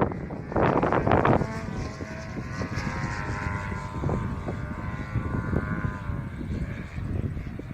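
DA70 twin-cylinder petrol engine of a large RC aerobatic plane in flight: a steady propeller drone with several overtones that wavers slightly in pitch and fades near the end. A gust of wind hits the microphone about half a second in.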